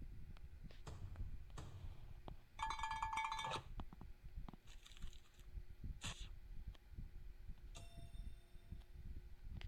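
A bell-like ringing tone lasting about a second, pulsing rapidly, about a quarter of the way in. A shorter ping comes near the end, with scattered clicks over a low rumble.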